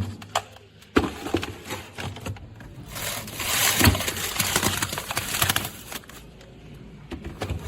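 A plastic milk-bag organizer being handled and taken out, with knocks and a rubbing, rustling scrape of plastic. There are a few sharp knocks about a second in, then a denser scraping stretch from about three to four and a half seconds, with another knock in the middle of it.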